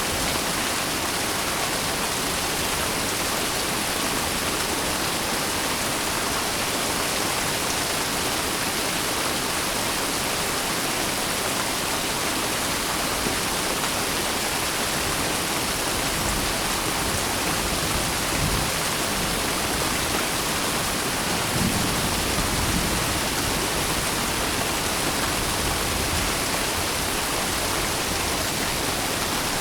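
Steady heavy rain, a dense even hiss of falling water, with a low rumble that swells briefly twice a little past the middle.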